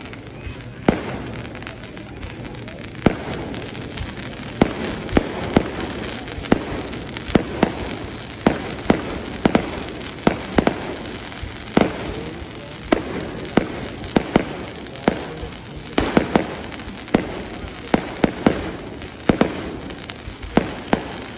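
Fireworks going off: dozens of sharp bangs at an irregular pace, sometimes several within a second, over a steady background noise.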